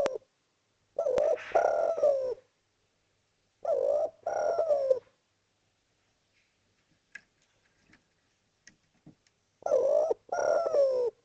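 Spotted dove (derkuku) cooing: three two-part coo phrases, the last after a pause of about four seconds.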